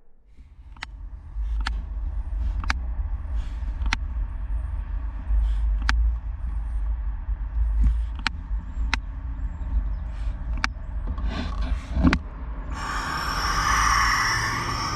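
A low rumble with sharp clicks about every second or two, then a loud, rough hiss starting near the end. The hiss is most likely a brooding barn owl's defensive hiss.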